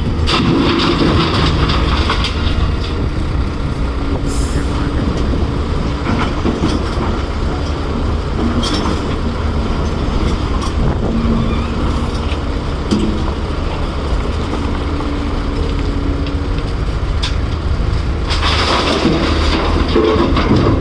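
Heavy diesel excavator running steadily under load, with scattered metallic clanks and scraping of rock and steel, and a rougher stretch of grinding noise near the end.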